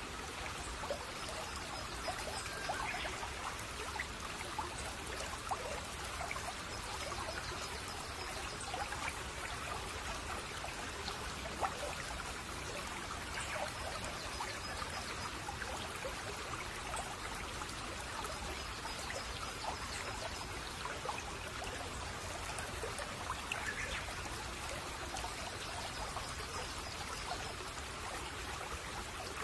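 Babbling brook: water trickling and splashing steadily over stones, with many small plinks. A faint short high trill recurs every five seconds or so.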